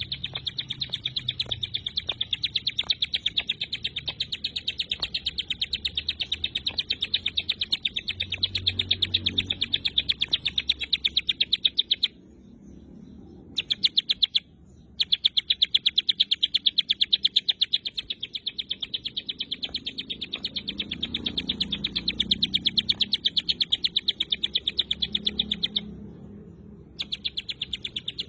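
Ciblek gunung singing its rapid 'tembakan rapat' song: a fast, even string of high, sharp notes, about five a second, breaking off briefly three times.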